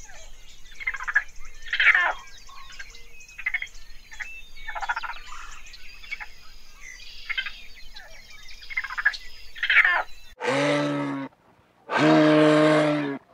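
Frogs croaking, a short call every second or so over faint chirping. About ten seconds in, they give way to two loud, deep, steady-pitched animal calls, each lasting about a second.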